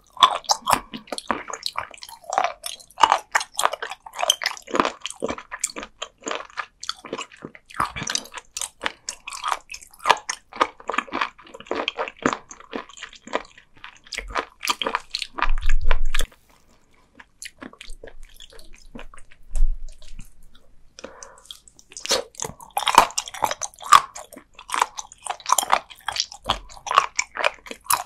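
Close-miked chewing of raw sea cucumber: a steady stream of crisp, wet crunches and clicks as the firm, rubbery flesh is bitten and chewed. A louder dull bump comes a little past halfway, followed by a brief pause before the chewing resumes.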